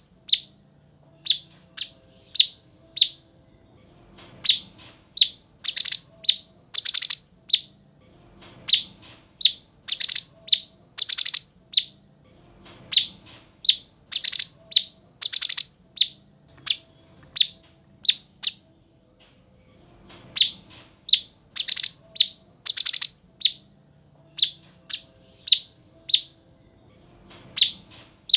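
Cucak cungkok singing in full voice: short, sharp down-slurred whistled notes alternating with dense, very high buzzy trills, repeated in bursts every second or two. A faint low hum lies underneath.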